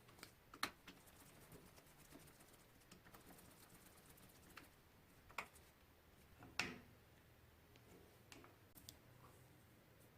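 Faint scattered clicks and taps of small metal parts being handled during assembly of a small two-stroke engine, with sharper knocks about half a second in and again around five and a half and six and a half seconds.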